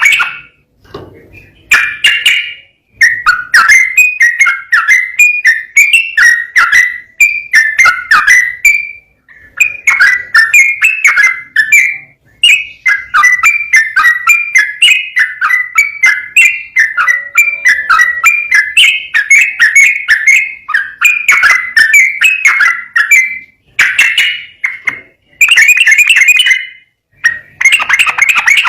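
Yellow-vented bulbul (trucukan) singing loudly in a long run of quick, bubbly, warbling phrases with only short breaks between them.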